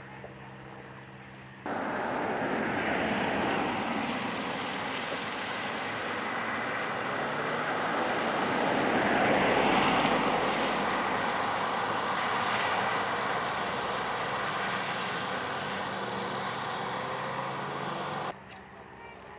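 A vehicle driving through floodwater on a roadway, its tyres throwing up a rushing spray of water with a faint engine underneath. The rush swells to a peak about halfway through, then eases, and cuts off abruptly near the end.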